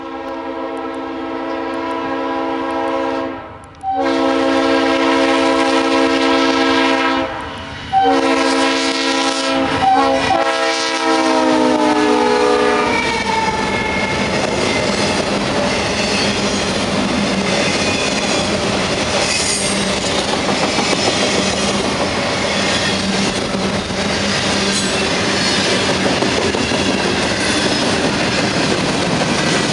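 Norfolk Southern freight locomotive's multi-chime air horn sounding three long blasts, its chord dropping in pitch as the locomotive passes near the end of the last blast. Then the train rolls by with a steady rumble, wheels clicking over the rail joints and squealing now and then.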